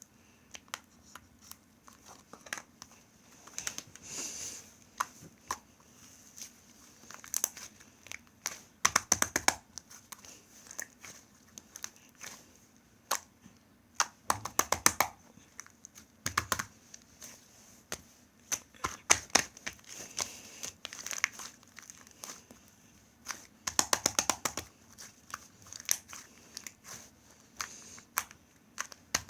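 Homemade clay slime being squeezed, pressed and stretched by hand: irregular crackling clicks and small pops, coming in clusters with short quiet gaps between them.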